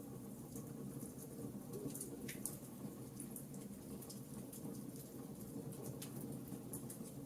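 Wood fire crackling in a fireplace: irregular small pops and snaps over a steady low rumble of flame.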